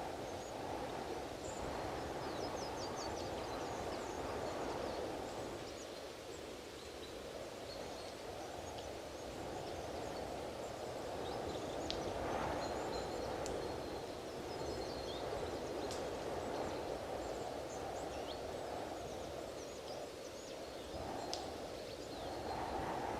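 Strong wind blowing in gusts, a rushing noise that swells and eases every few seconds, with faint short high chirps of small birds scattered through it.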